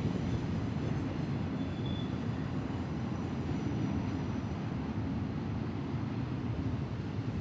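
Long BNSF intermodal freight train (trailers on flatcars) moving past: a steady, heavy low rumble.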